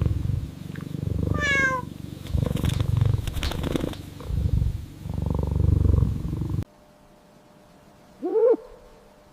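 A domestic cat purring in long low rumbling phrases, with a short falling meow about a second and a half in. The purring cuts off abruptly near the end. About a second later, an owl gives a single hoot.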